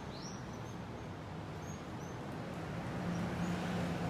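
Street ambience: short high bird chirps every so often over a steady outdoor hum, with a vehicle engine growing louder in the second half as it approaches.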